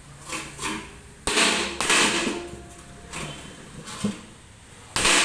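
A series of knocks and clanks, the loudest about a second in, again just after and near the end, as a front-load washing machine's drum assembly is tapped to work it loose; the drum bearing inside is rusted.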